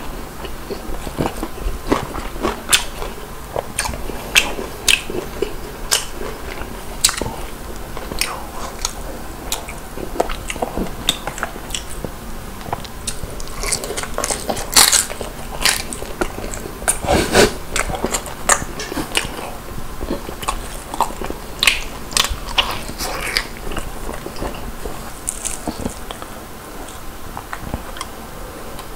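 A person biting into and chewing crispy deep-fried chicken, the crunchy crust cracking in irregular crunches between bites.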